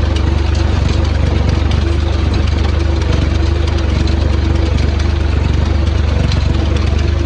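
Tractor engine running steadily with a fertiliser machine, a deep low hum under a mid-pitched tone that drops out briefly now and then.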